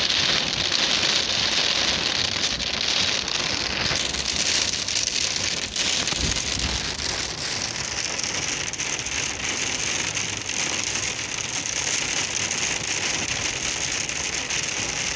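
Heavy rain falling, a steady hiss of rain on surfaces.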